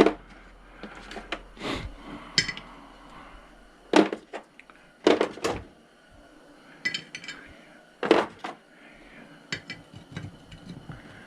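Steel sockets clinking and knocking against each other and the socket case as they are rummaged through and tried for size, a dozen or so separate metallic clinks at irregular intervals.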